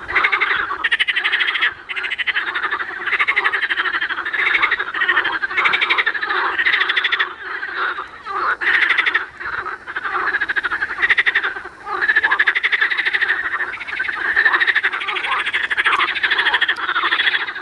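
A dense chorus of many frogs croaking loudly, their pulsed, rattling calls overlapping without a break. The chorus swells and dips every second or two.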